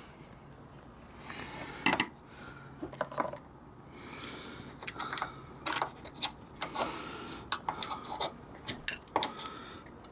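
Irregular clicks, light knocks and short scraping rustles of hand tools and small metal parts being handled, with sharper knocks about two seconds in and near the end.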